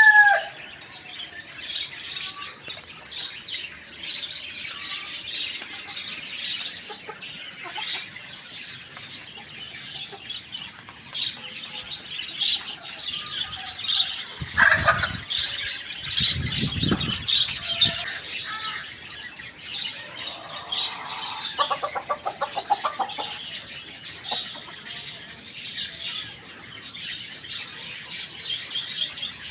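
A flock of small birds chirping and twittering continuously. A short falling squawk comes about halfway through, with a few low thumps, and a rapid stuttering call follows a few seconds later.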